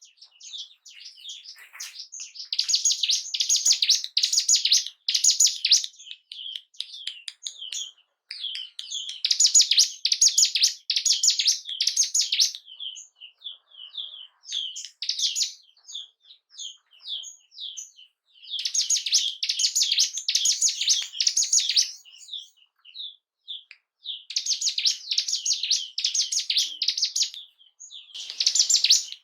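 Ciblek gunung singing in fast, high chirping phrases a few seconds long, with scattered single chirps in the gaps between them. It is a lure song meant to set off a caged bird's breeding urge and territorial excitement.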